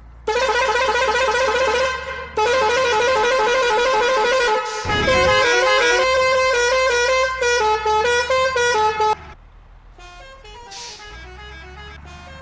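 A truck's melodic musical horn plays a tune with wavering, changing notes. It is loud, breaks off briefly about 2 s in, and stops suddenly about 9 s in. A much quieter run of notes follows.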